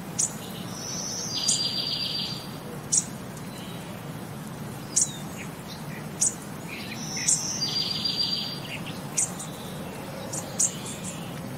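Wild birds calling: sharp high chirps every second or two, and twice a short trilled song phrase, about a second in and again about seven seconds in, over a steady low hum.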